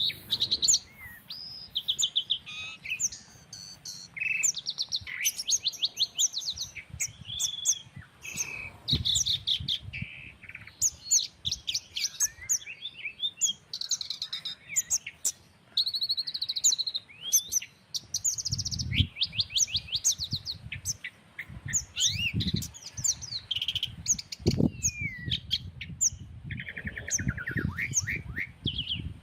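Several songbirds chirping and calling over one another in quick repeated trills and whistles. Uneven low rumbles of breeze come and go underneath, heavier in the second half.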